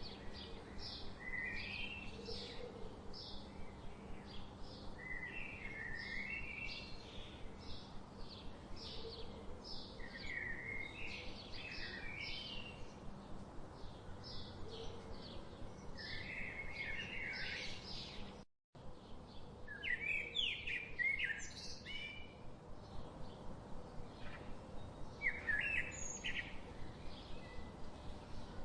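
Small birds chirping, a fast run of short repeated calls with brighter call phrases every few seconds, over a faint steady hum. The sound cuts out completely for an instant about two-thirds of the way through, then the chirping resumes.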